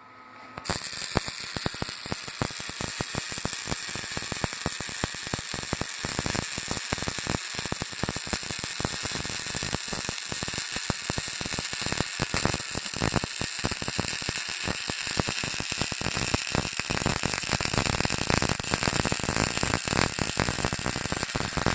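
Wire-feed (MIG) welding arc crackling and sputtering steadily as a weld bead is run, starting about half a second in.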